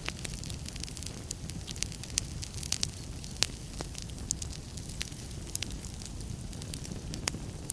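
Wood fire burning in a fireplace: a steady low rumble of the flames with irregular sharp crackles and pops from the burning logs, one louder pop near the middle.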